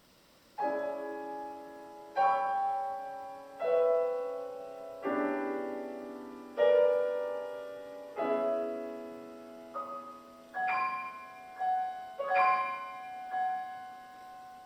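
Solo piano: after a brief silence, a series of loud chords struck about every second and a half and left to ring, then quicker, lighter notes and chords near the end.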